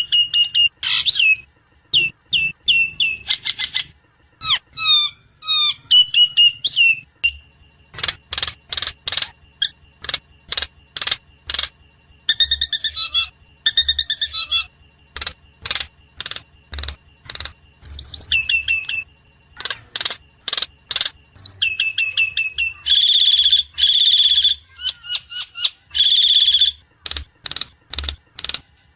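Javan myna (jalak kebo) calling in a varied run: repeated falling whistled notes at first, then long series of sharp chipping notes, and harsh buzzy calls near the end.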